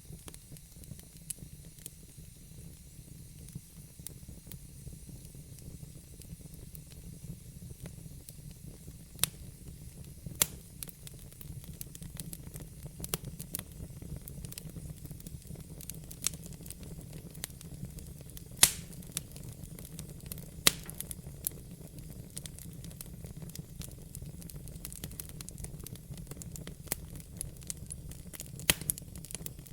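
Log fire burning in a fireplace: a steady low rumble with scattered sharp crackles and pops from the wood, the loudest one about two-thirds of the way through.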